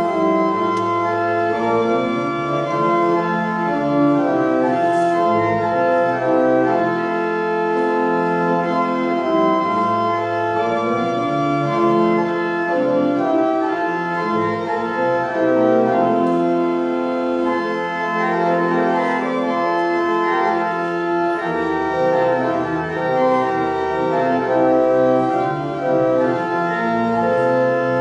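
Church organ playing slow, sustained chords, several notes held together and changing every second or two.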